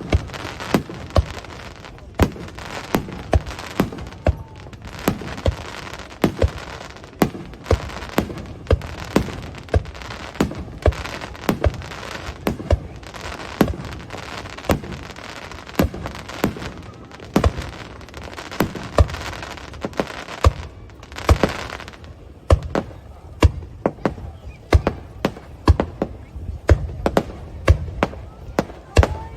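Aerial fireworks bursting, a rapid irregular run of sharp bangs several a second, with a denser crackling spell about two-thirds of the way through.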